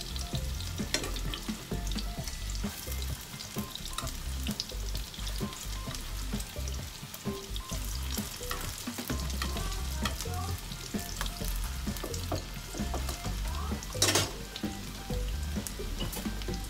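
Egg-and-flour-battered zucchini slices sizzling and crackling in shallow oil in a frying pan, with occasional taps of metal tongs against the pan as the slices are turned over. A short, louder crackle comes about fourteen seconds in.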